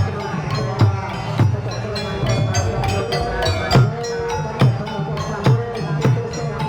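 Procession music with drums beating about once a second and ringing, bell-like metal tones over them.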